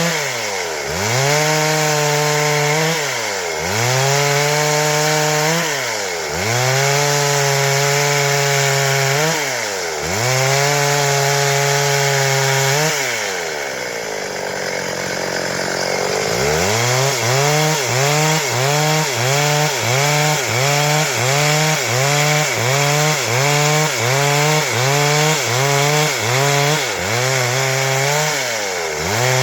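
Stihl MS 382 two-stroke chainsaw running at high revs while cutting wood, its engine pitch dipping and recovering about every three seconds. Around the middle the revs sag low and rough for a few seconds, then the engine comes back up and dips in quick succession, about once every second or less.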